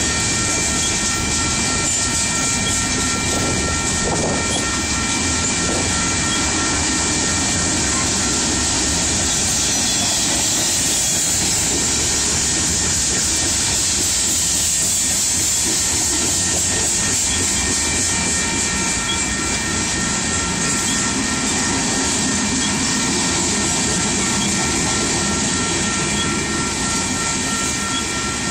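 Covered hopper cars of a freight train rolling past close by: a steady rumble and rattle of steel wheels on the rails, with a thin, steady, high ringing over it.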